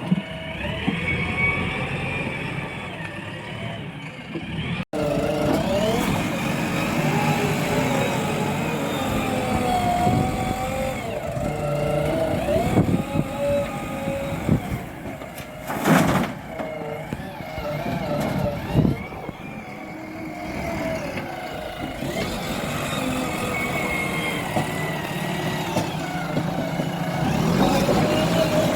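Diesel engines of a JCB backhoe loader and a tractor running, their pitch rising and falling as the loader works. A loud sharp knock comes about sixteen seconds in.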